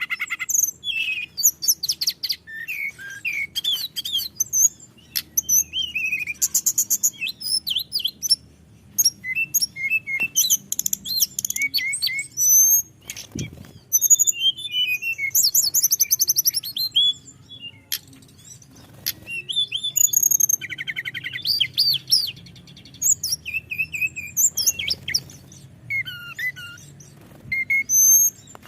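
Tledekan gunung songbird singing a long, rolling song of quick high whistles, slurred up-and-down notes and buzzy trills, with short pauses between phrases. A faint low hum lies underneath and a single click sounds about halfway through.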